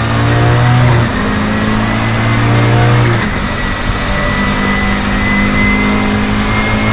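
Audi 2.2-litre turbocharged five-cylinder engine running hard on track. Its note changes abruptly about a second in and again a little after three seconds, as with gear changes or throttle lifts. A thin high whine rises slowly throughout.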